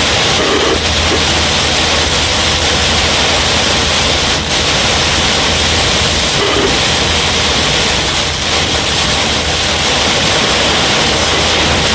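Heavy thunderstorm rain pouring down, a loud, steady rushing noise.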